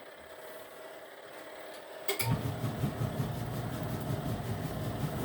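Portable washing machine's motor running the wash cycle: a quiet pause, then a click about two seconds in as the motor starts again with a steady low hum.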